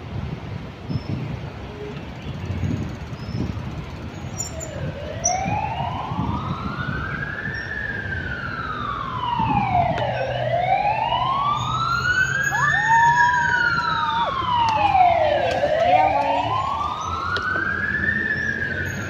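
Emergency vehicle siren wailing, its pitch rising and falling slowly about three times, coming in a few seconds in over low traffic rumble. A few faint high bird chirps come before it.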